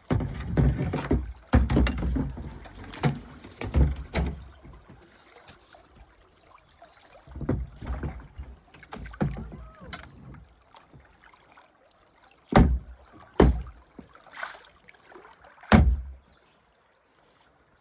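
Kayak hull and paddle knocking and scraping against logs and branches, with water sloshing: a dense run of bumps at the start, a quieter stretch of scraping, then three sharp knocks near the end.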